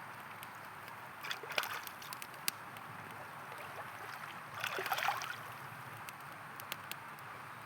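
A river flowing steadily, with sharp pops and crackles of a campfire scattered through it and two louder sloshing bursts about a second and a half and five seconds in.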